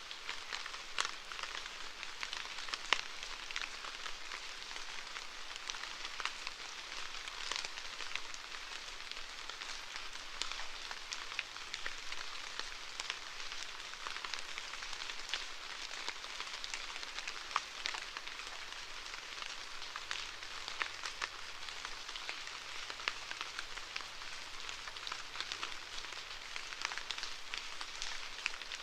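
Steady rainfall: an even hiss of rain with many individual drops ticking and pattering on a surface throughout.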